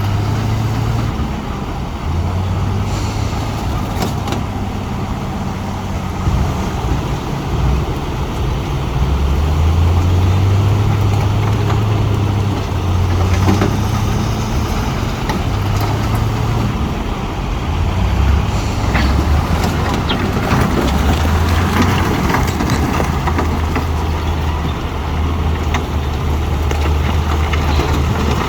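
Diesel engine of a heavy earthmoving machine running, its pitch shifting up and down with load, with scattered clanks and knocks.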